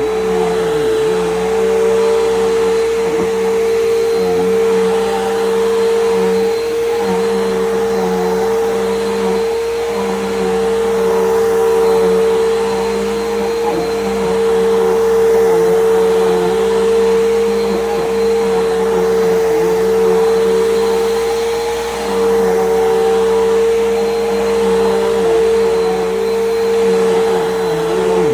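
Bissell PowerGroom bagless upright vacuum cleaner running steadily with a strong, even whine, its loudness dipping slightly now and then.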